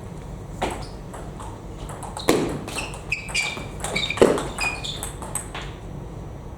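Table tennis rally: the ball clicks sharply off bats and table every second or so, with shoes squeaking on the hall floor between strokes.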